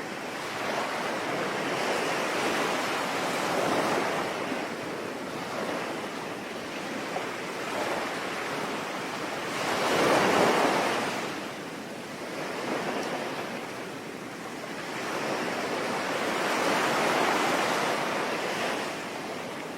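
Sea waves breaking and washing in, swelling and fading in slow surges every several seconds, the loudest about halfway through.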